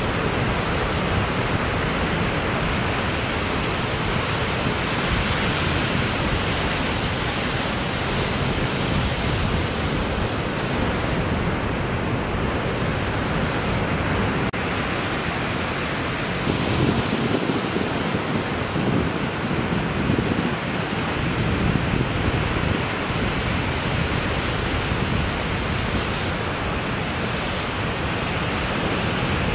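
Steady rush of ocean surf mixed with wind noise on the microphone, becoming fuller and more uneven a little past halfway.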